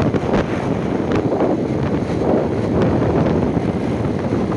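Strong wind buffeting the microphone, over a steady noisy rumble.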